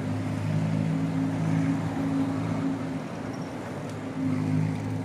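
A motor vehicle's engine running close by: a low, steady pitched drone that swells twice.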